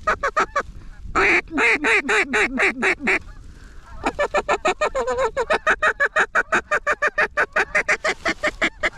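Duck call blown in quacking sequences: a loud run of drawn-out quacks, a short pause, then a long, fast chatter of short quacks, several a second, calling incoming ducks to the decoys.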